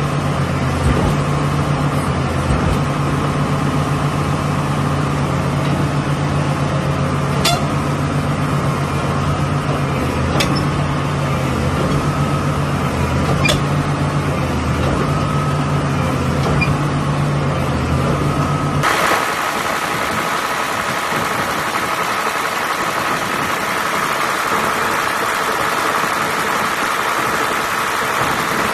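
SANY 365 excavator's diesel engine running steadily with a deep, even note and a few sharp clicks. About two-thirds through, the sound changes abruptly: the deep note drops away and a higher, hissier running sound carries on at the same loudness.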